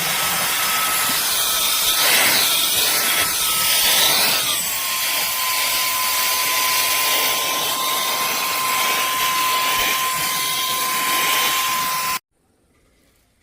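Cordless handheld vacuum cleaner running, a loud hiss of airflow with a high motor whine. Between about two and four and a half seconds in, the airflow wavers and the whine drops to a lower pitch, then holds steady. The sound cuts off suddenly near the end.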